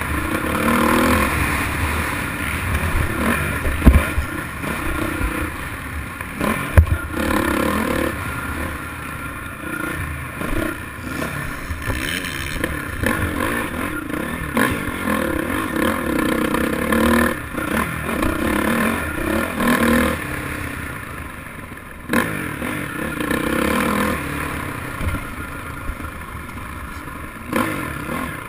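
Motocross dirt bike engines revving up and down, the pitch rising and falling repeatedly, with two sharp knocks about four and seven seconds in.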